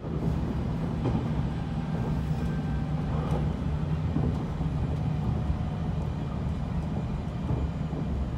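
Train running, heard from inside the passenger carriage: a steady low rumble that starts abruptly.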